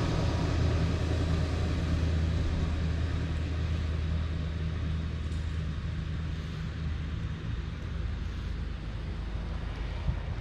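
A steady, low engine drone, as of a motor vehicle running at an even speed.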